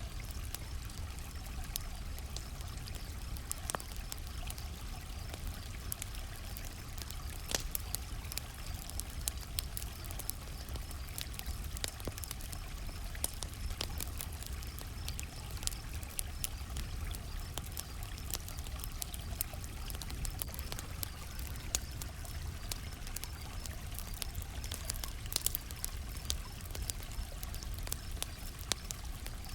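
Campfire crackling, with scattered sharp pops over a steady low rush, and crickets chirping faintly and continuously.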